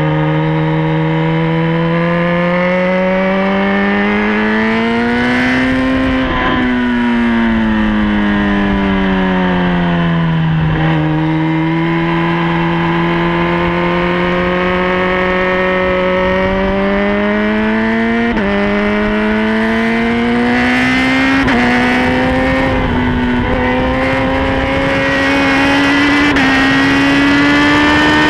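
Sport motorcycle engine at full track pace: the note climbs under acceleration, falls away for several seconds under braking about six seconds in, then pulls up again with a run of short drops in pitch at the upshifts in the second half.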